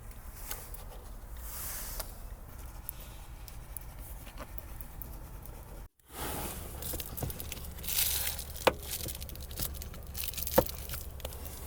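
Rustling and crinkling handling noises with scattered clicks and knocks over a low steady rumble, broken by a brief cut to silence about six seconds in.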